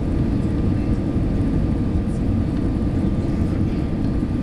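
Steady low rumble of engine and airflow noise heard inside an Airbus A320 passenger cabin, with a faint steady whine above it.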